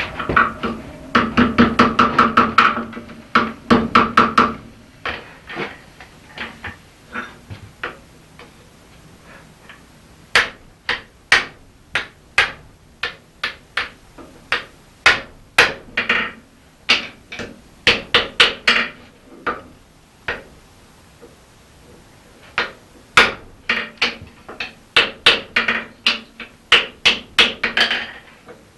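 Hammer blows on hot steel against an anvil, forge-welding a felling axe's opened scarf closed: a quick ringing flurry of strikes at first, then spaced single blows, then more fast runs of strikes near the end.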